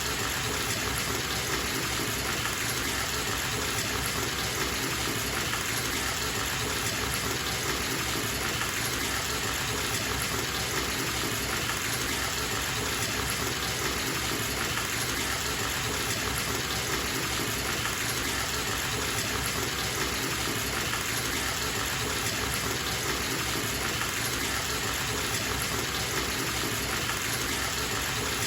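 Tap water running steadily into a bathtub as it fills: an even, unbroken gush of water.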